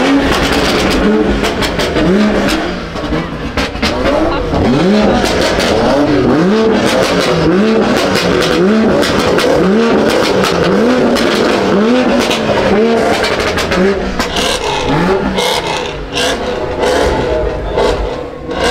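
Stage 2 tuned BMW M340i's turbocharged 3.0-litre inline-six being revved in repeated blips, about one a second, the pitch rising and falling each time, with sharp pops and cracks from the exhaust.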